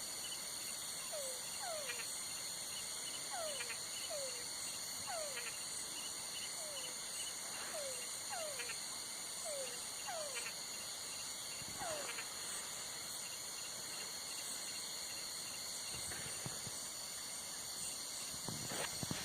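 Night chorus of insects, crickets among them, trilling steadily in several high bands. Over it, short downward-sliding calls come about once a second, often in pairs, and stop about twelve seconds in; a few soft knocks sound near the end.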